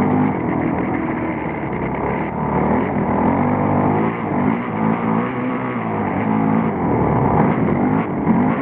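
Motocross bike engine heard close up from the handlebars, revving up and down with the throttle, its pitch rising and falling several times over the few seconds.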